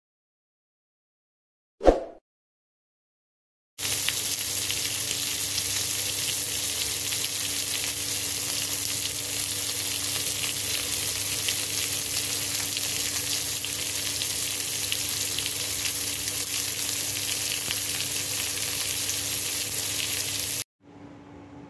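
A single short click about two seconds in. From about four seconds in, chicken tocino sizzles and crackles steadily as it fries in hot oil in a pan, then cuts off suddenly near the end.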